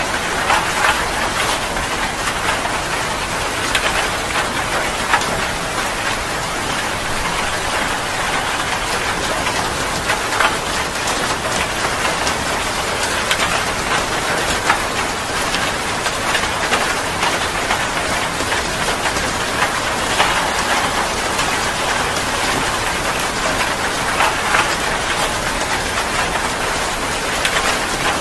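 Heavy rain falling steadily, with many individual drops ticking sharply against a surface.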